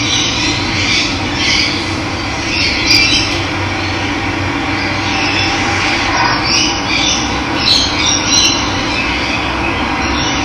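Running water with a steady rushing sound, and wild birds calling and chirping over it, with short calls repeating throughout.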